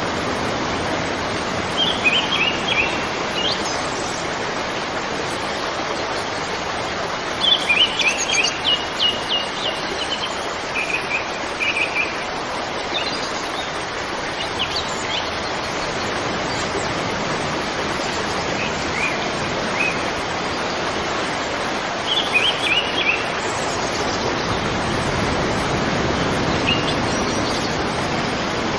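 Songbirds chirping in short bursts of quick repeated high notes, several times, over a steady rushing background noise.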